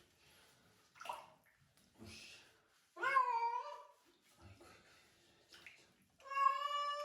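Cat meowing twice while being bathed, two drawn-out meows each about a second long, the first bending down in pitch and the second held level. Softer splashing and handling noises come between them.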